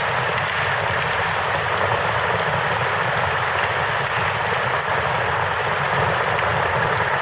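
A river's steady rushing flow, with faint crackling from a wood campfire over it.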